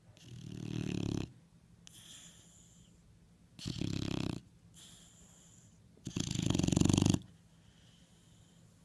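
Dog snoring loudly in its sleep: three fluttering snores about three seconds apart, with softer breaths out in between. The last snore is the loudest.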